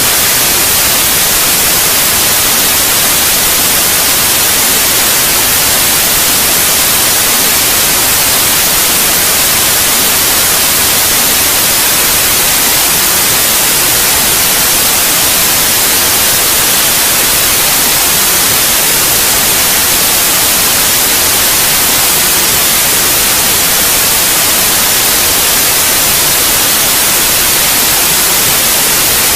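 Steady white noise: a loud, even hiss, brightest in the high frequencies, played as a sleep sound for babies.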